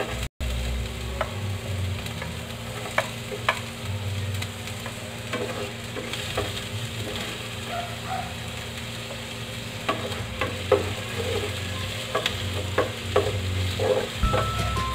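Chopped onion and garlic sizzling in hot olive oil in a frying pan, with scattered clicks and scrapes of a spoon and spatula against the plate and pan as the aromatics are stirred.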